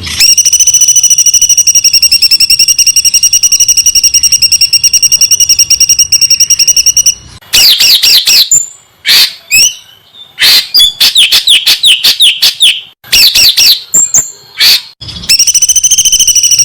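Songbird song, loud and high-pitched: a very fast trill held on one steady pitch for about seven seconds, then bursts of quick sweeping notes with short gaps between them, and the fast steady trill returns near the end.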